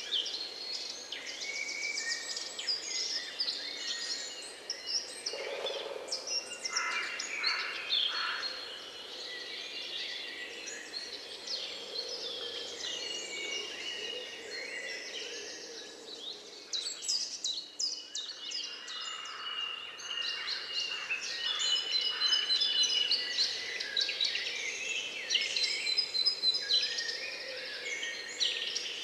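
A chorus of several songbirds chirping, trilling and whistling over one another without pause, with a lower cooing-like call at the start and again about five seconds in.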